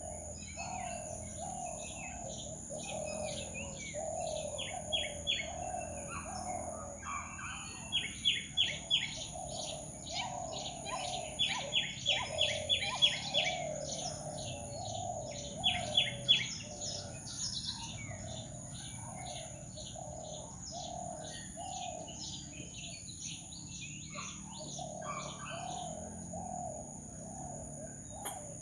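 Tropical forest birds chirping and calling, with several quick runs of loud sharp chirps in the first half, over a steady high insect drone and a low call repeated again and again.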